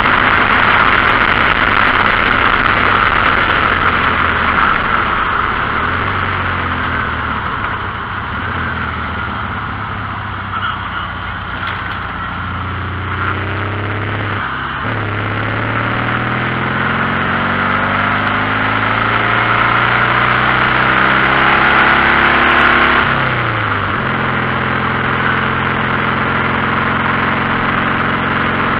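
A Volkswagen air-cooled flat-four 1600 runs under way in an open buggy over a steady hiss of wind and road noise. Through the middle its pitch climbs steadily as it pulls, then drops abruptly about three-quarters of the way in, as when the driver shifts or lifts off.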